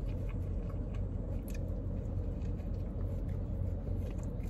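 A person chewing a mouthful of Big Mac topped with French fries, with faint soft chewing clicks, over a steady low hum in a car's cabin.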